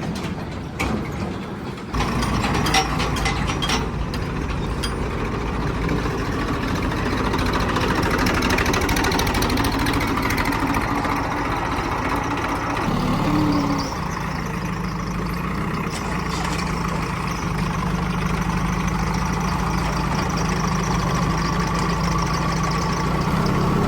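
Heavy diesel engine running steadily. It picks up about two seconds in and changes pitch again about halfway through, with a few sharp knocks in the first few seconds.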